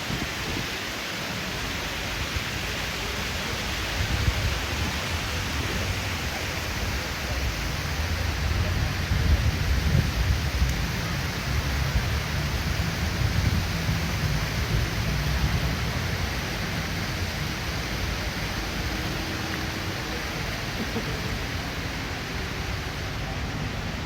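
Steady rushing splash of a large fountain's falling water. A low rumble swells under it about a third of the way in and eases off later.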